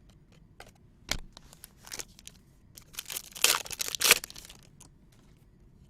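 Trading-card pack wrapper being handled and torn open. There is a sharp click about a second in, then a burst of crinkling and tearing about three to four seconds in.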